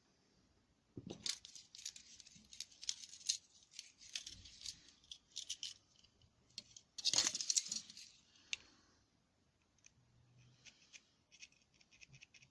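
Small metal carburettor parts and tools clicking and clinking as they are handled during cleaning, with a louder, longer clatter about seven seconds in.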